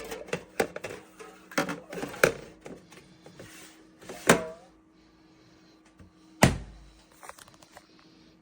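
Handling of a small plastic thermoelectric mini fridge: a series of sharp knocks and thunks, the loudest a deep thud about six and a half seconds in, as of its door and contents being moved, over a faint steady hum.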